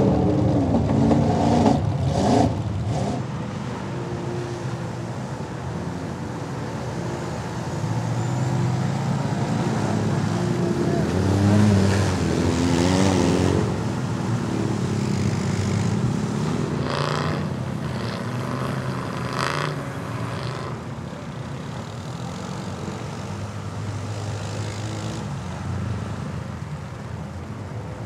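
Off-road vehicle engines running and revving hard, their pitch rising and falling, loudest near the start and again about twelve seconds in.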